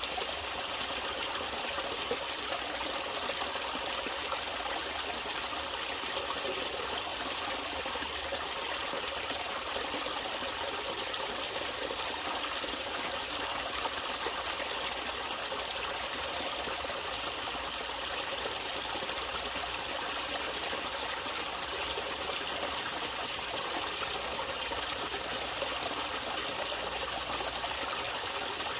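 Natural running water trickling and flowing steadily and evenly, with no breaks or changes.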